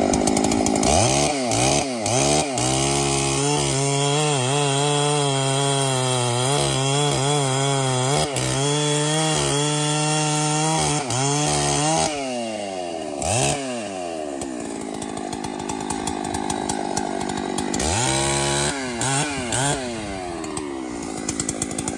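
Chainsaw running under load, cutting wood, its engine pitch wavering as the chain bites. About twelve seconds in the engine drops back to a lower speed, then is revved up and down briefly twice near the end.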